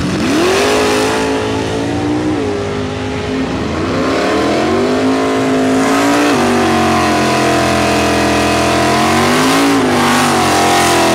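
A drag-racing muscle car's engine revved hard and held high through a burnout, its rear tyres spinning. The revs climb sharply at the start, sag and climb again a few seconds in, hold high, then fall away near the end.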